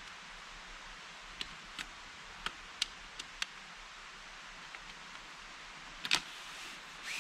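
A handful of small sharp clicks or snaps, spaced irregularly in the first half, with a louder snap about six seconds in, over a steady hiss of outdoor background.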